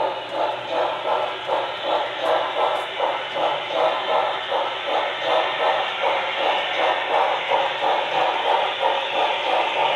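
Model steam locomotive's sound system chuffing rhythmically, about two to three chuffs a second.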